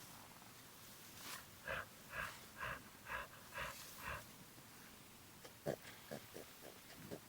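Gorilla play call: about six breathy, pant-like grunts, roughly two a second, followed near the end by a quicker run of short, lower grunts.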